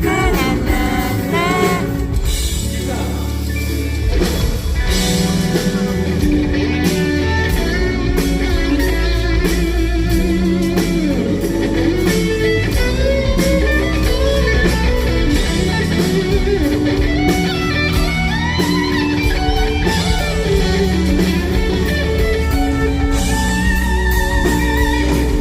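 Live pop-rock band playing an instrumental break: a lead guitar playing bending, wavering notes over bass and drums.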